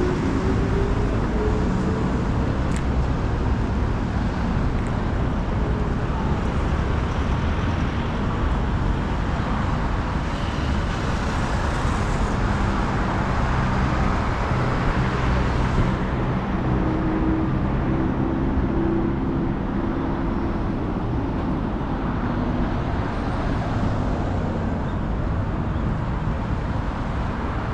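City street traffic: a steady wash of cars and engines going by. A vehicle's engine note rises near the start, and an engine hum holds a steady pitch for several seconds past the middle.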